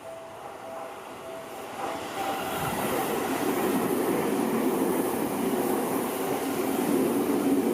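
Railway crossing bell ringing in a quick, even beat. About two seconds in, a Seibu Ikebukuro Line train comes onto the crossing, and its wheels running on the rails grow louder and cover the bell.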